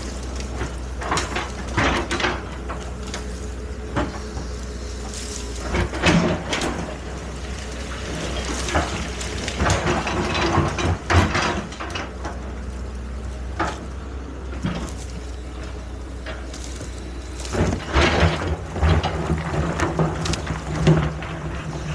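Excavator working: its engine runs steadily underneath, with irregular clanks, knocks and scrapes from the digging gear, coming in several spells, the busiest about halfway through and again near the end.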